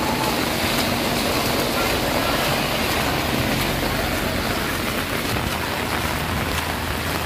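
Steady rain falling on the road and vegetation, with a Mahindra Bolero SUV driving past close by on the wet road near the start.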